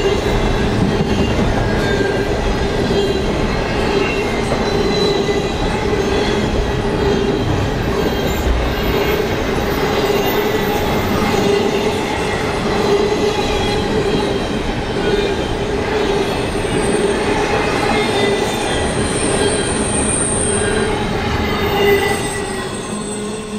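Double-stack container well cars of a freight train rolling past: steel wheels rumbling on the rails, with a steady ringing squeal from the wheels on the super-elevated curve. The sound fades away near the end.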